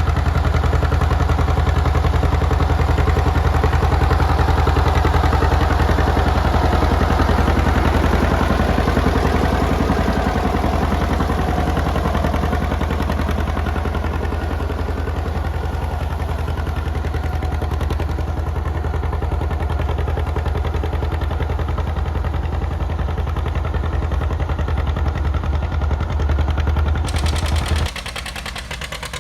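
John Deere two-cylinder tractor engine running under way, its exhaust popping in a fast, even beat. Near the end it cuts to a quieter engine.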